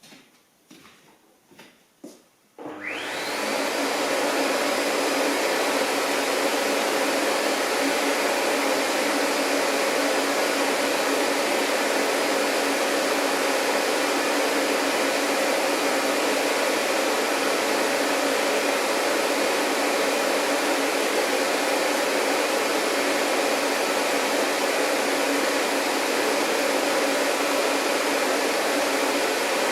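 A few faint clicks, then a vacuum cleaner switches on about three seconds in, its motor whine rising quickly as it spins up before settling into a steady running drone.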